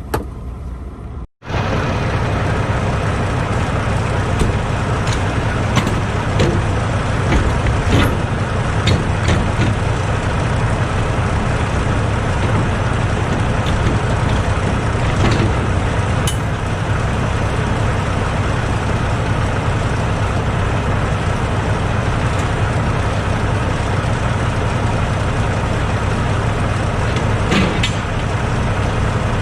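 Semi truck's diesel engine running steadily, with a few light clicks and knocks during slow manoeuvring. The sound cuts out for an instant about a second in.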